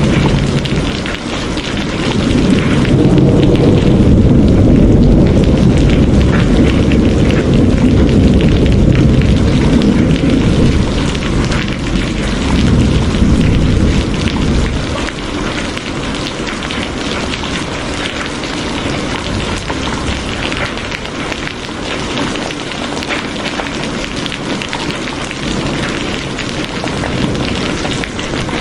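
Steady rain, with a long deep roll of thunder rumbling under it that fades out about halfway through.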